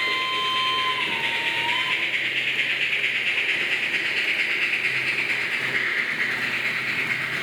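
Märklin H0 model steam locomotive sounding a whistle from its sound decoder for about two seconds, the pitch stepping down slightly about a second in. Under it, a steady hiss of the model train running on the layout.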